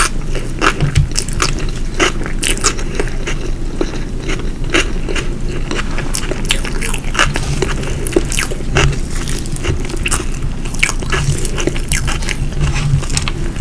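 Close-miked chewing and biting of food, with many irregular small crunches and wet clicks.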